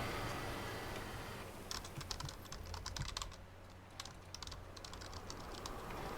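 Typing on a computer keyboard: a quick, uneven run of key clicks starting about a second and a half in and stopping about five seconds in, over faint office background noise.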